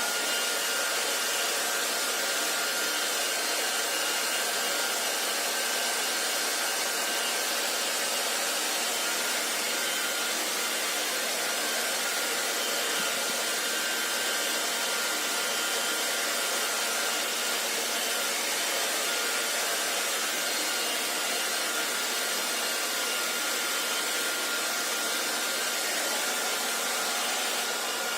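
Hair dryer running steadily: an even rush of blown air with a faint, steady high motor whine.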